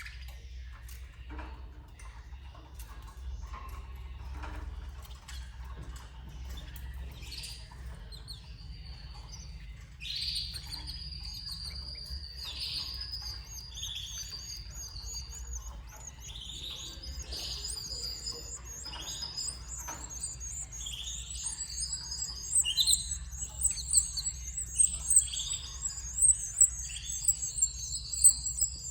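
Canary nestlings begging in the nest. After about ten seconds of faint rustling clicks, short high calls start repeating, and a rapid high-pitched chatter builds and grows louder toward the end. A low steady hum runs underneath.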